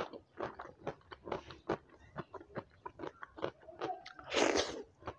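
Close-miked chewing of a mouthful of food, with wet mouth clicks several times a second. A brief louder hiss comes about four seconds in.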